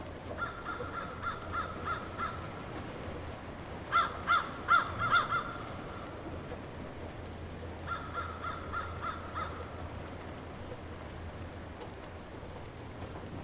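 A bird calling in three runs of about six quick repeated notes, the middle run the loudest, over the steady hiss of light rain.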